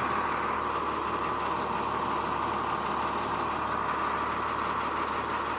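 Cold MaxxForce DT diesel in a 2012 IC CE school bus idling steadily, a constant even drone with no change in speed.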